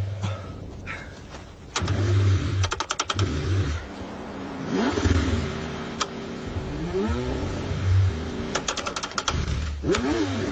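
Car engine being cranked on a hard cold start, struggling to fire. It comes in uneven bursts with rising and falling whines, and has two short runs of rapid clicking.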